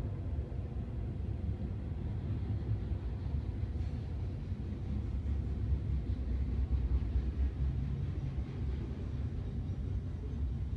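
Union Pacific grain train, a loaded freight train, rolling past with a steady low rumble.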